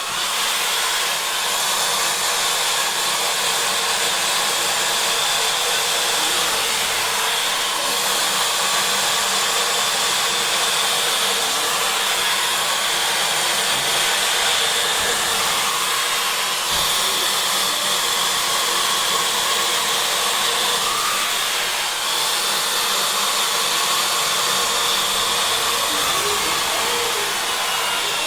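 Cecotec RitualCare Lisse dryer-straightener blowing air: a steady fan whir with a faint high whine.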